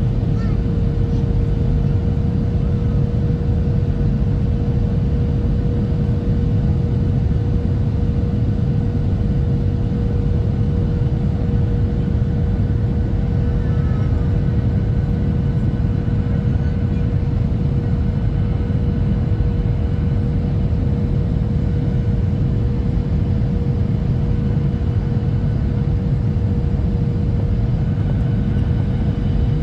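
Steady cabin noise inside a Boeing 737-800 in flight: the low rumble of its CFM56-7B turbofan engines and the airflow past the fuselage, with a steady mid-pitched hum laid over it.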